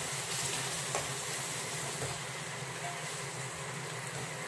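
Chopped onions and tomatoes frying in coconut oil in a stainless steel pot: a steady sizzle, with a few faint taps and scrapes of the spatula stirring.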